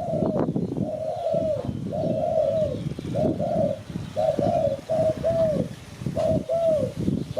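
Spotted dove cooing: a run of short coos, each arching and falling off at the end, repeated over and over, with a rough low noise underneath.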